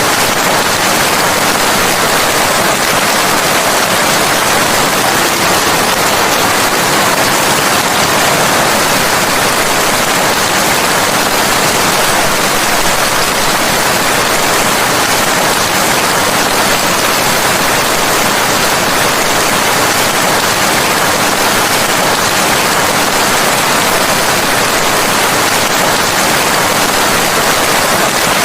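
Steady, unbroken rain, a dense even hiss with no separate drops or thunder standing out.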